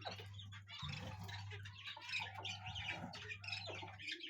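Faint chirping and calls of caged pet birds.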